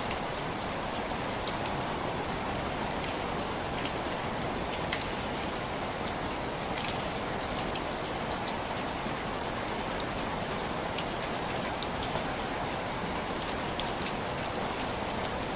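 Steady rain with many small drops tapping on window glass.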